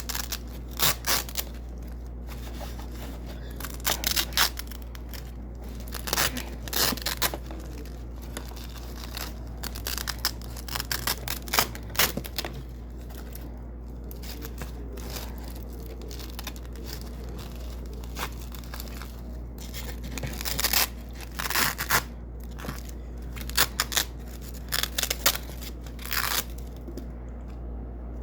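Double-sided Velcro strips being ripped off white hook tape again and again in short, crispy tearing pulls, some single and some in quick runs.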